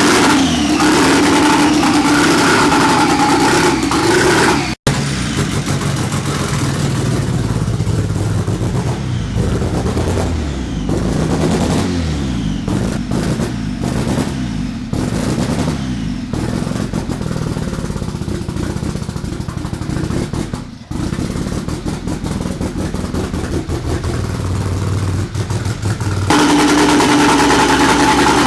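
Freshly rebuilt, turbocharged Honda D16Z6 SOHC four-cylinder running just after its first start, held at raised revs as for breaking in a new cam. About five seconds in the sound cuts out for a moment and returns lower and rougher with uneven clattering. Near the end it goes back up to the steady raised revs.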